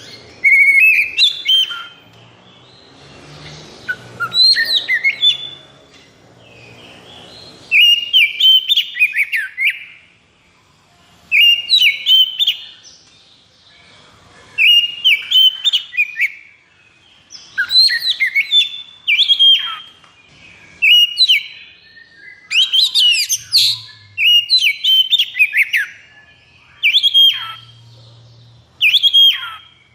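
Oriental magpie-robin (kacer) singing: short loud whistled and chattering phrases repeated about every one and a half to two seconds, in the rapid, non-stop 'konslet' style used to provoke other males.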